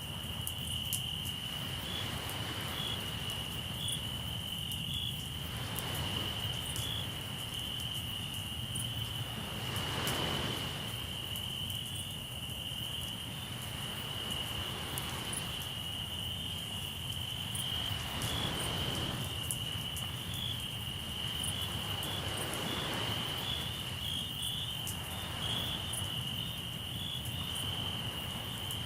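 Crickets trilling steadily with a high, even tone, over a campfire crackling with small sharp pops. Waves wash in slow swells every few seconds, one stronger about ten seconds in.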